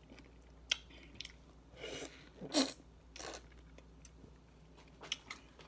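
A person chewing juicy mango: scattered wet mouth clicks and smacks, with a couple of short, louder bursts of chewing about two to two and a half seconds in.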